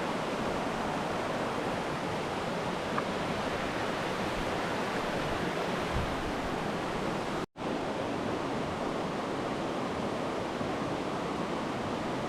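Steady rushing of a mountain trout stream, water running over rocks, with a momentary drop-out about halfway through.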